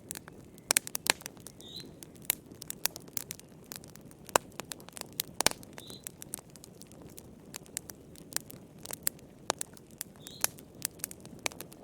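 Wood fire crackling in a fireplace: a low, steady rush under irregular sharp pops and snaps, some much louder than others. A faint short high chirp recurs about every four seconds.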